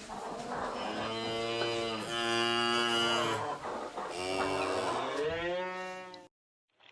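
Cattle mooing: several long, drawn-out moos one after another, the last rising in pitch, then cut off abruptly near the end.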